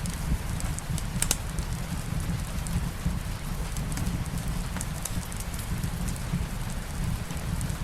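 Steady rain mixed with a crackling fireplace: a constant hiss over a low rumble, with scattered sharp pops and crackles, the loudest a little over a second in.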